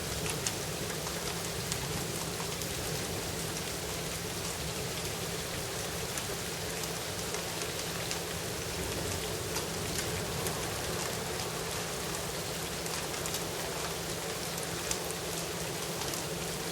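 Steady rain falling during a thunderstorm, with many individual drops ticking sharply on hard surfaces.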